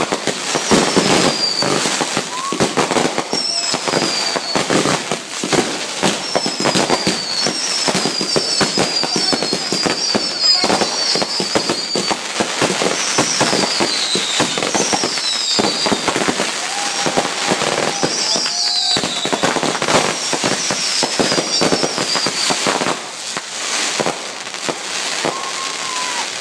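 Fireworks grand finale: a dense, continuous barrage of bangs and crackling, with many short whistles falling in pitch throughout.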